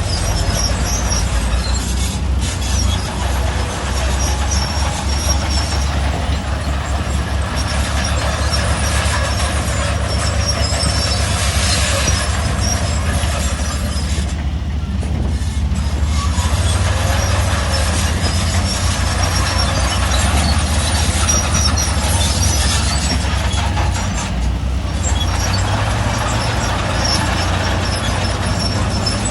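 Heavy diesel earthmoving machinery working: a steady low engine rumble with scattered high metallic squeaks.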